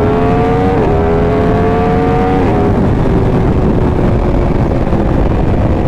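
Yamaha R1 sport bike engine with an aftermarket Competition Werkes exhaust, heard from the rider's helmet, accelerating through the gears: the pitch climbs, breaks at an upshift about a second in and again about two and a half seconds in, then holds steady at cruise. Heavy wind rush on the helmet microphone underneath.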